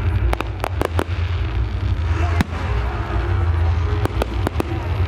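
Fireworks display going off: a rapid cluster of sharp cracking bangs in the first second, a single bang about two and a half seconds in, and another quick cluster near the end, over a continuous low rumble.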